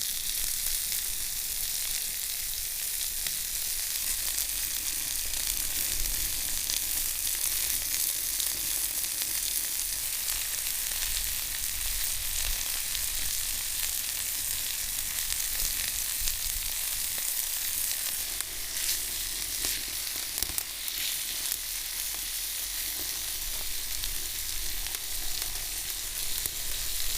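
Meat sizzling on a grill over a wood fire: a steady hiss with a few scattered pops.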